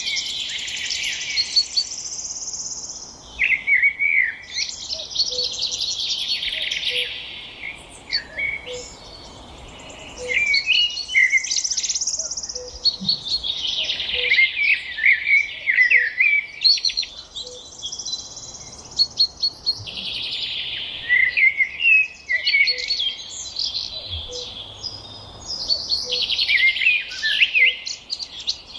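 Several songbirds chirping and chattering at once: swells of buzzy, high twittering laced with short sharp chirps, rising and falling every few seconds.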